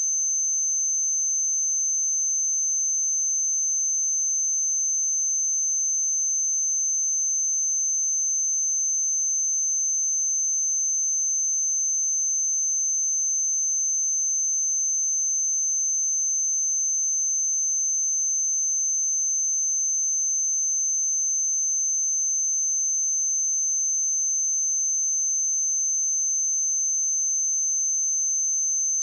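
A steady, high-pitched 6222 Hz sine-wave test tone, one pure pitch held unchanging at an even level.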